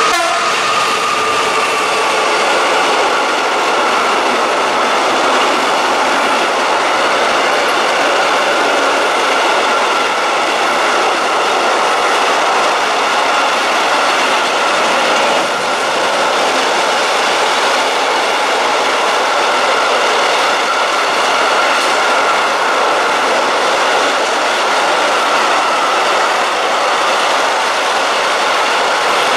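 A long rake of freight wagons running past close by: a steady, loud rush of wheel-on-rail noise, with a thin high ringing tone from the wheels held throughout.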